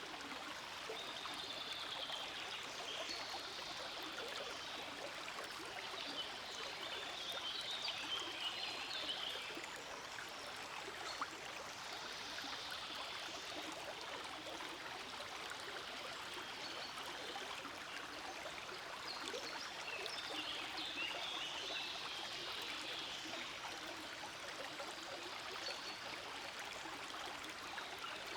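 Forest creek flowing: a steady rush of running water.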